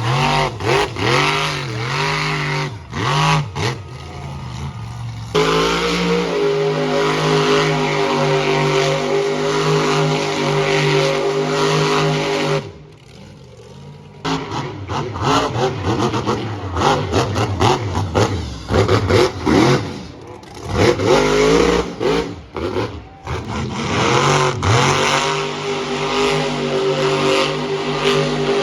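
Monster truck engines revving hard: quick throttle blips rising and falling in pitch, long stretches held at high revs, and a short quieter lull about thirteen seconds in.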